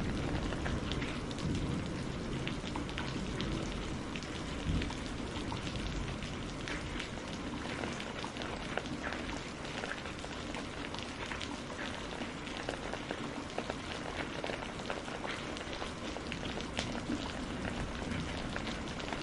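Steady rain heard from inside a greenhouse, a constant wash of rain with many separate drops landing as sharp ticks.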